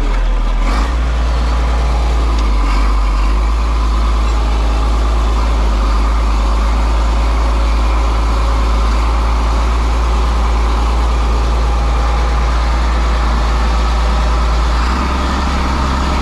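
Tractor engine running steadily under way, its low note shifting about a second in and again near the end.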